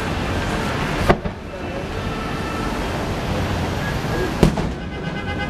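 Two fireworks bursting, sharp bangs about three seconds apart, over a steady background of outdoor noise.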